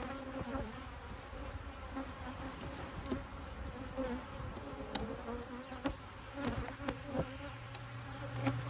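Many honeybees buzzing around an opened, disturbed hive, a steady hum with occasional sharp clicks and knocks of wooden hive parts being handled.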